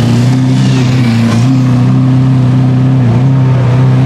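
Sports car engine running loud at steady revs, its note holding an even pitch with a brief dip about three seconds in.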